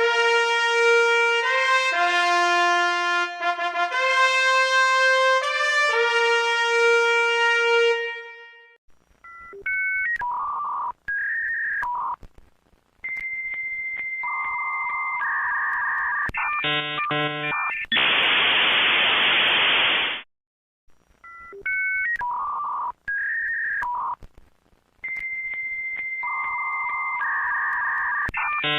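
A short melody on a brass-like instrument, about eight seconds of held notes. Then comes a sequence of electronic beeps and steady tones that switch pitch, ending in a two-second burst of hiss. The tone-and-hiss sequence starts over about twenty-one seconds in.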